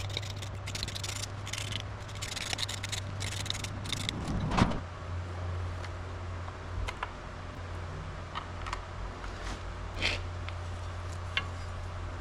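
Metal hand tools and parts clinking, scraping and knocking in a workshop, with one louder knock about four and a half seconds in, over a steady low hum.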